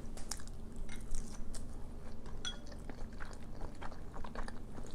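Close-up mouth sounds of a person chewing a mouthful of fish fillet, with a run of small, irregular wet clicks and crackles.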